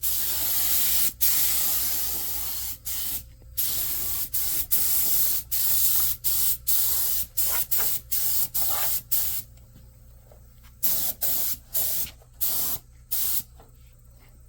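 Compressed air hissing from a trigger-operated air tool in bursts, a few longer ones first and then a quick series of short bursts that stop about thirteen seconds in.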